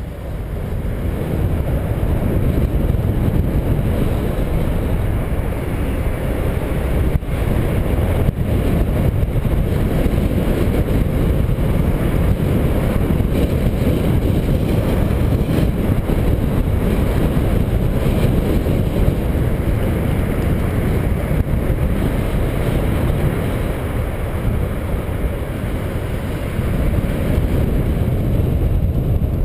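Wind buffeting the microphone of a camera on a moving bicycle: a steady, loud low rumble, with a couple of brief clicks about seven and eight seconds in.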